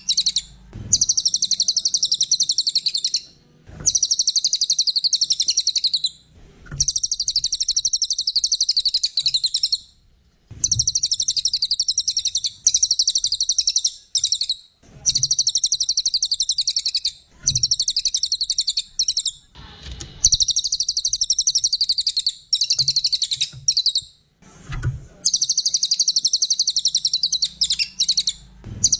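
Cililin bird singing: long, rapid, high-pitched trilling chatter in repeated bouts of about two to three seconds, each broken off by a short pause.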